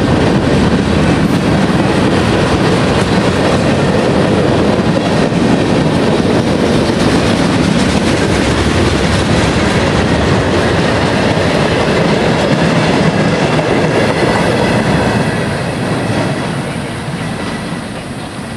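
Freight cars of a mixed manifest train rolling past close by, their wheels clattering steadily over the rail joints. The sound eases off in the last few seconds as the tail of the train moves away.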